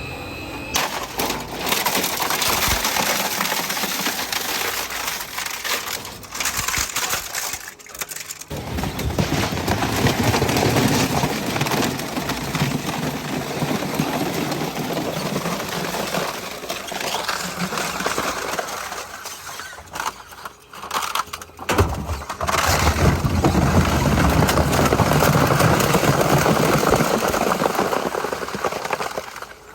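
Heavy-duty industrial shredder tearing up scrap household appliances: a continuous crunching, cracking and grinding of metal and plastic. It breaks off briefly about eight seconds in and again around twenty to twenty-two seconds.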